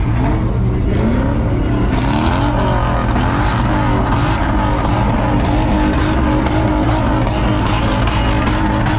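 Car engine revving up and down again and again, loud and continuous.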